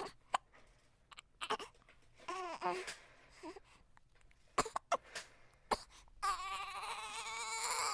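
A baby's short fussing whimpers and small mouth and cough-like noises, then near the end a sustained crying wail with a wavering pitch that cuts off suddenly.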